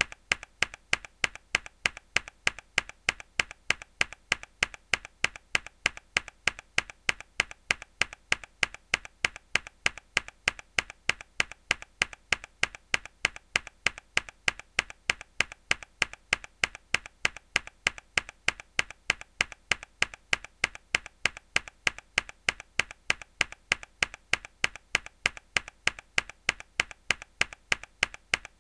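A mechanical keyboard key pressed hard over and over: sharp, bright clacks at an even pace, a few a second, each loud clack paired with a softer click.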